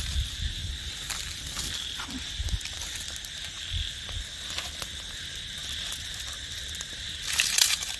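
Steady night chorus of insects, a continuous high trill, with scattered faint clicks and a brief louder rustling burst near the end.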